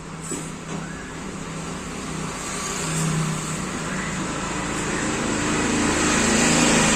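A motor vehicle driving past close by: engine hum and road noise growing steadily louder, loudest near the end.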